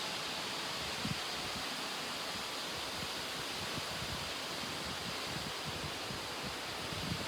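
Strong thunderstorm wind: a steady rushing hiss of wind through trees, with gusts buffeting the microphone in low thumps.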